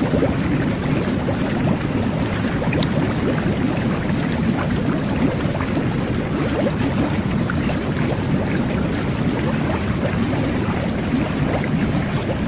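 Jet bath (whirlpool bathtub) jets running, churning the bath water into a steady, deep rush of bubbling water with small pops scattered through it.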